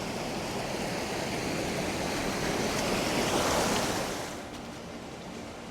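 Rushing creek water running high after storms, a steady hiss that swells about three and a half seconds in, then drops off quickly.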